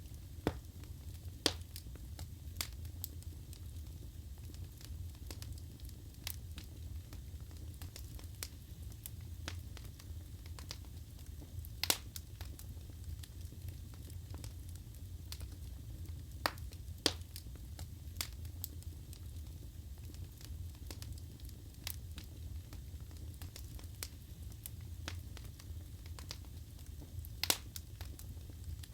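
Wood fire burning in a fireplace: a steady low rumble of the flames with scattered sharp crackles and pops from the burning logs, a few of them louder.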